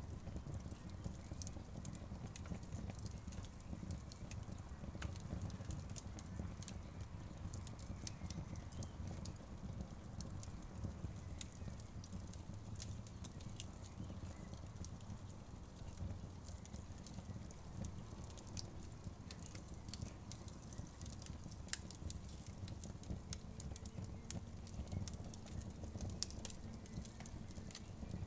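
Wood fire burning in a fireplace, its logs crackling and popping in frequent small, irregular snaps over a low steady rumble.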